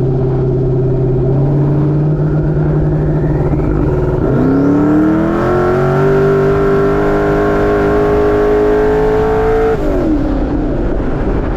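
Twin-turbo cammed LS V8 in a Ford Dentside pickup under hard acceleration. It runs at steady revs for about four seconds, then pulls with its revs climbing for about five seconds, and lets off just before ten seconds in.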